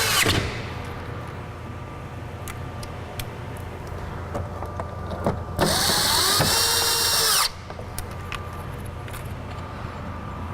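Power drill running in two short spells: one stops just after the start, and another runs for about two seconds midway, its whine climbing in pitch, holding, then dropping as it stops. Light clicks and taps come in between.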